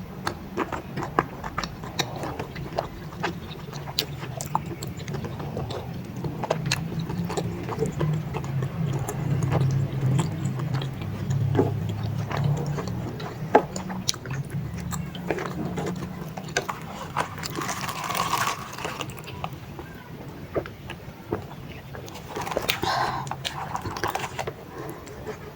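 Close-miked eating: chewing and biting soft, chewy tapioca balls (baso aci) in spicy broth, with many sharp wet mouth clicks, and twice in the last third a breathier, noisier sound.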